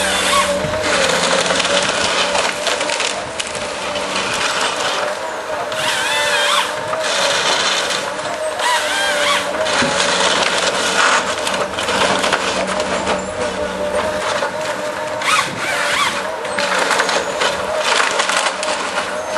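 Tree-felling harvester at work: its engine and hydraulics hold a steady whine while the felling head saws and processes a tree, with repeated rough surges of wood being cut.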